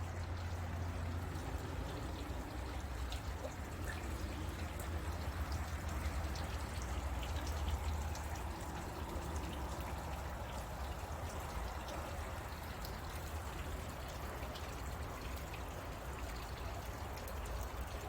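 Water trickling and running steadily, with small splashy ticks, over a steady low rumble.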